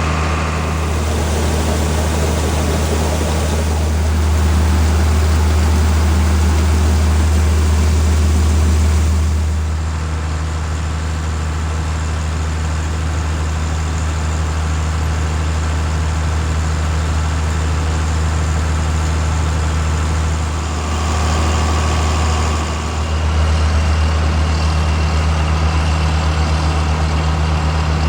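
Heavy diesel engine running steadily with a deep, even hum; the pitch and loudness shift slightly about ten seconds in and again near twenty-three seconds.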